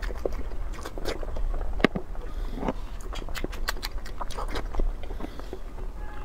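Close-up eating sounds: chewing with many short, sharp crunchy clicks and smacks, irregularly spaced, the loudest about two seconds in, over a low steady hum.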